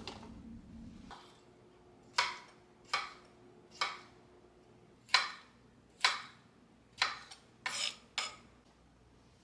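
Kitchenware clinking and knocking: about eight separate sharp knocks, one to two per second, with a low steady hum stopping about a second in.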